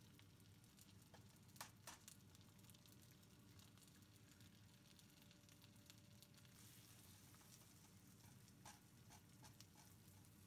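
Faint crackling of eggs frying in a nonstick skillet over a diced potato, bacon and spinach filling, with a few scattered pops: one about a second and a half in and a small cluster near the end.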